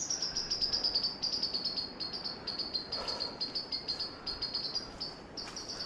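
Insect chirping in the bush: a rapid, even train of high-pitched pulses, about ten a second, holding one pitch throughout.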